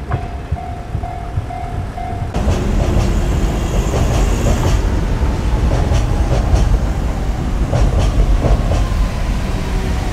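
Electric train running past on the rails, a dense rumble with wheels clacking over rail joints. A steady high tone in the first two seconds cuts off as the train noise jumps up abruptly.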